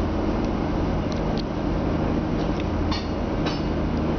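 UMZ-4216 engine idling with a Bosch electric radiator cooling fan running steadily, a fan fitted in place of the stock electromagnetic fan clutch. It is running because the coolant has passed its 92 °C switch-on point and has not yet cooled to the 88 °C switch-off point. A few faint clicks are heard over it.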